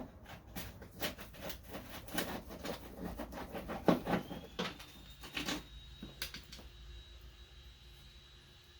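Irregular clicks and light knocks of small metal car parts being handled and worked loose, thinning out about six seconds in. A faint, steady high whine comes in about halfway through and holds.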